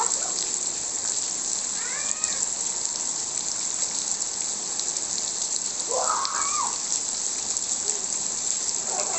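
Rain falling steadily, a continuous hiss of drops. A child's voice gives two short calls, one about two seconds in and one about six seconds in.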